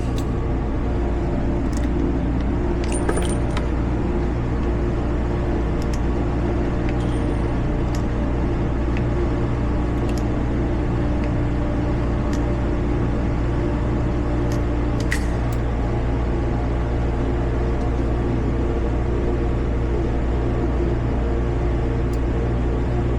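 Scattered faint metallic clicks and clinks over a steady low hum, typical of a Smith & Wesson 640 revolver being unloaded and reloaded between strings of fire, with cartridges and spent cases clinking.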